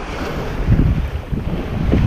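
Wind buffeting the microphone over water rushing and splashing past the hull of a small sailboat under way, an O'Day 23 sailing at around 5 knots.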